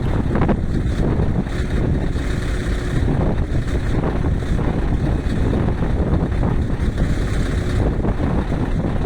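Heavy truck running with a steady low rumble, with wind buffeting the microphone.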